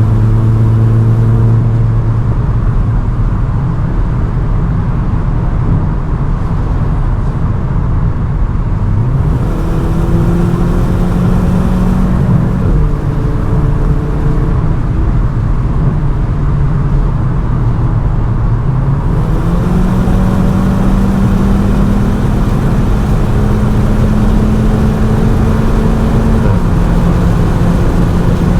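CUPRA Ateca's 2.0-litre turbocharged four-cylinder engine droning at high Autobahn speed over heavy road and wind noise. Its pitch climbs in steps about a third of the way in and again past the middle, then drops back a little near the end.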